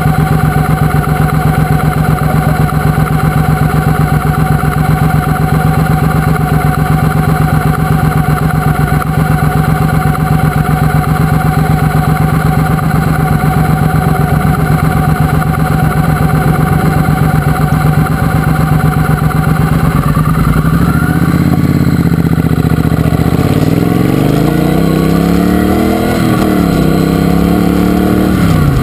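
Triumph Speedmaster's parallel-twin engine idling steadily, then, about twenty seconds in, the motorcycle pulls away and the engine revs up. Its pitch dips briefly at a gear change, climbs again, and drops once more near the end.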